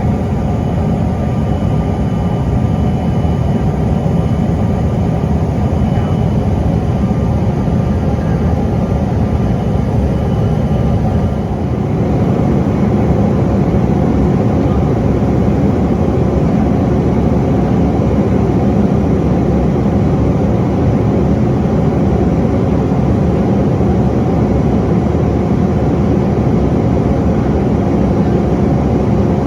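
Steady cabin noise of a CRJ-900 regional jet under power: the deep, even sound of its rear-mounted General Electric CF34 turbofans and the airflow. A faint high whine fades out about eleven seconds in, and the noise then grows slightly louder and holds steady.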